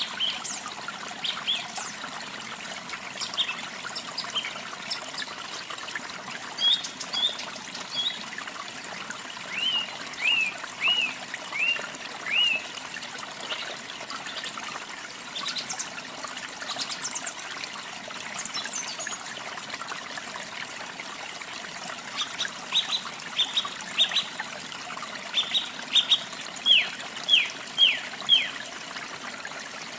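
Steady trickle of running water from a stream or small waterfall, with a songbird calling over it in short, sharp downward-sweeping chirps: a run of five about ten seconds in and a longer run of chirps near the end.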